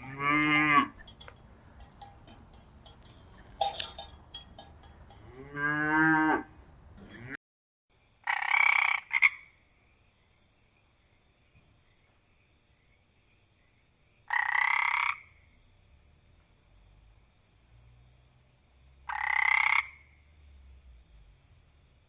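Animal calls: two pitched calls falling in pitch, then, after a sudden cut, three short rough calls about five seconds apart over a faint steady high trill.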